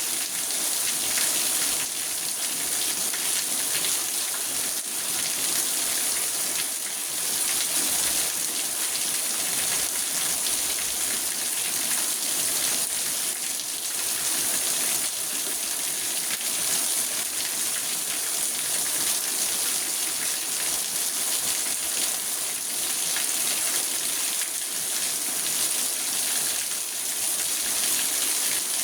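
Rain falling steadily on a car's roof and windows, heard from inside the car: a dense, even hiss of countless drops with no breaks.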